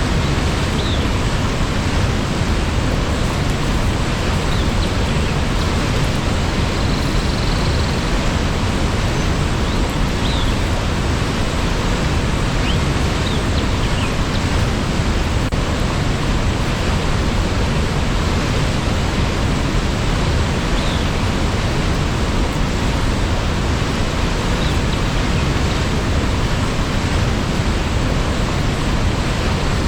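Waterfall rushing steadily, an even roar of falling water, with a few faint short high chirps now and then.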